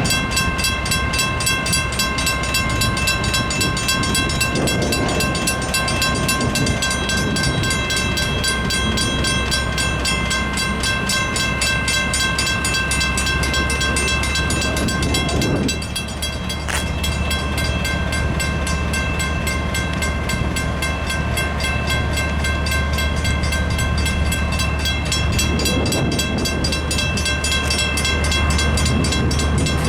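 Electronic railroad crossing bell ringing in fast, steady strokes, with the low steady rumble of a diesel locomotive underneath and a few rushing swells of train noise. About halfway through, part of the bell tone drops out and the rumble grows stronger.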